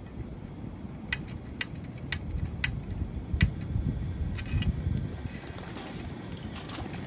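Piezo igniter of a backpacking canister stove clicking sharply, about two clicks a second, five times, then a few softer clicks, as the stove is lit. Wind rumble on the microphone underneath.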